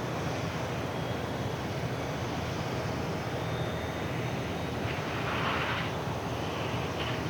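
Airbus A350-900's Rolls-Royce Trent XWB jet engines running with a steady rumbling hum, with a brief rushing hiss about five seconds in.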